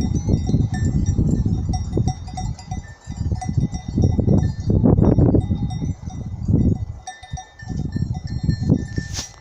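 Wind gusting through black pines, buffeting the microphone in surges that rise and fall, with a brief lull about seven seconds in. Faint high ringing tones sound above the wind.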